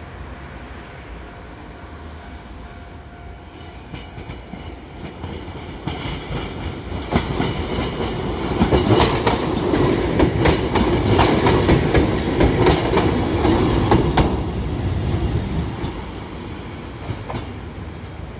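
A two-car Kotoden 1100 series electric train approaches and passes close by, its wheels clicking over the rail joints. It grows louder from about four seconds in, is loudest between about eight and fourteen seconds, then fades.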